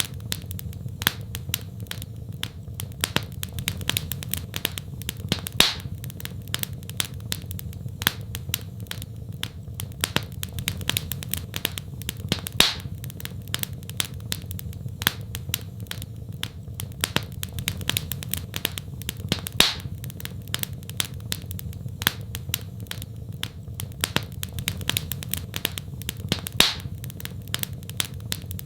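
Wood fire in a fireplace crackling: many small irregular snaps and a few louder pops, over a steady low rumble.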